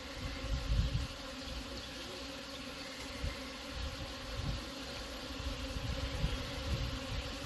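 Honeybees buzzing steadily around a hive, a continuous mid-pitched drone, with bursts of low rumble on the microphone now and then.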